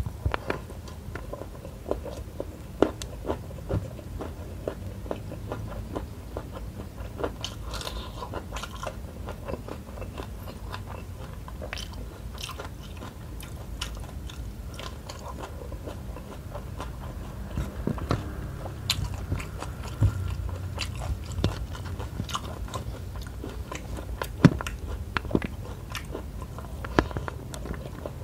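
Close-up mouth sounds of a person chewing and biting mouthfuls of rice with shrimp and petai (stink bean) sambal, with many short sharp clicks scattered throughout.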